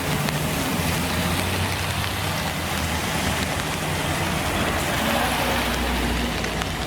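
Classic car engine running steadily, a low exhaust rumble with an even hiss over it.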